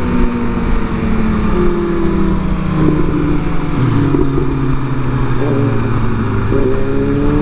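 Sport bike's inline-four engine on the move, its pitch falling slowly as the bike slows, with a step down about four seconds in. It picks up again and rises near the end as the bike accelerates, with wind rushing throughout.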